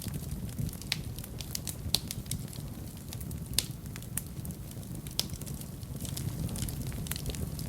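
Wood fire burning in a fireplace: irregular crackles and sharp pops over a steady low rumble, with a few louder pops about two, three and a half, and five seconds in.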